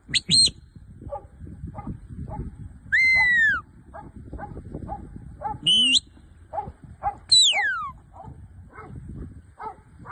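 A working sheepdog whining and yelping in high, eager cries. There are two short yelps at the start, then longer whines, one of them falling steeply in pitch, with quick soft pulses in between.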